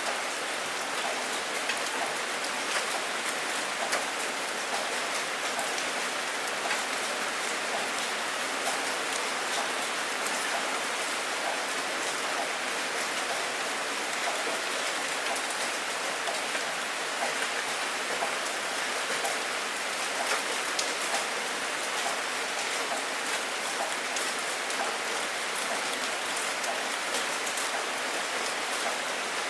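Steady rain falling, with a thick scatter of individual drops striking a hard surface close by.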